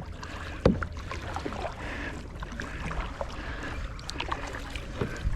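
Kayak paddling: water splashing and dripping off the paddle blades, with scattered small clicks and a sharp knock about 0.7 s in and another near the end.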